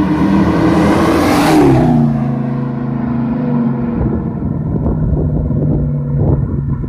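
Dodge Charger's 5.7L Hemi V8 with Flowmaster Super 44 mufflers driving past: the exhaust note builds to its loudest about one and a half seconds in, drops in pitch as the car goes by, then carries on at a lower steady pitch as it moves away.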